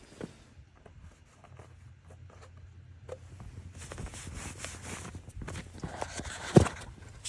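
Scattered light clicks and handling noises of hands-on car work, with a hissing rush a few seconds in and one sharp knock about six and a half seconds in.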